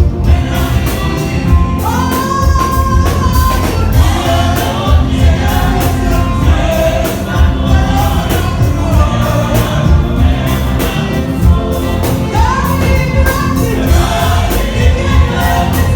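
A congregation singing gospel praise music together, with steady beats, probably drums or clapping, keeping a strong rhythm.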